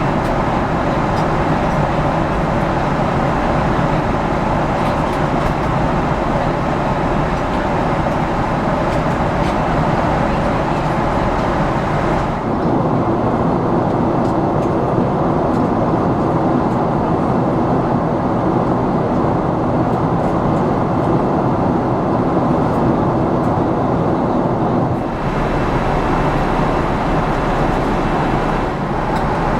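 Steady in-flight cabin noise of a Boeing 777-300ER: a constant rush of airflow and engine noise. The upper hiss drops away abruptly about twelve seconds in and returns near the end.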